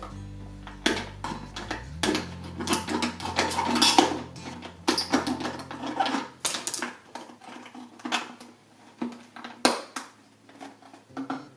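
Clattering and clicking of hard objects being handled and cut by hand, a busy run of sharp knocks, thickest in the first half. Background music fades out about two seconds in.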